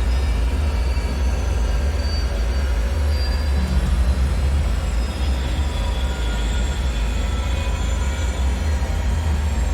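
Dark ambient bunker soundscape: a steady deep rumbling drone, with faint thin metallic whining tones that drift in and fade out above it.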